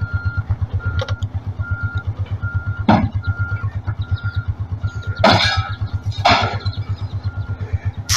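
A vehicle engine running with a rapid low throb, while a short electronic beep repeats about twice a second. A few sudden noisy bursts cut in about three, five and six seconds in.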